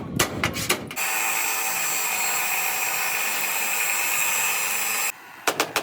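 A few sharp hammer knocks, then a power tool running steadily for about four seconds with a high-pitched whine, stopping abruptly, followed by another rapid run of knocks near the end.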